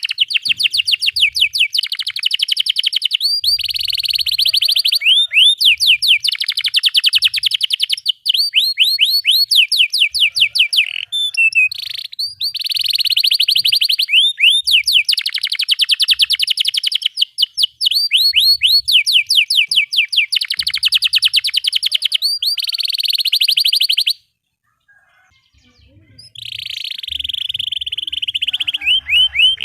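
Domestic canary singing long, fast rolling trills of rapidly repeated sweeping notes, in runs split by short breaks. The song stops about 24 seconds in and starts again two seconds later.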